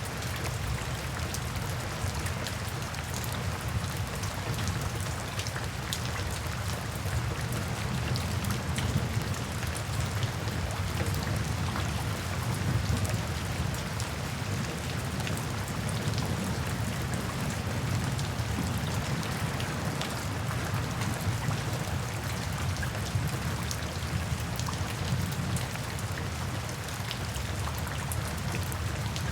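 Steady rain falling, with a low rumble beneath it and many small, sharp ticks scattered throughout.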